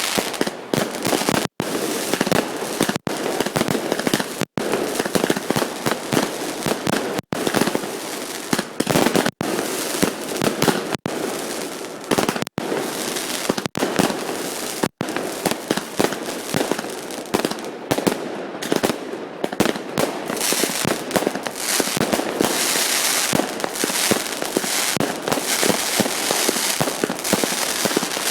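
Fireworks display: a dense, continuous barrage of exploding shells, crackling with many sharp bangs. In the first half the sound cuts out for an instant several times.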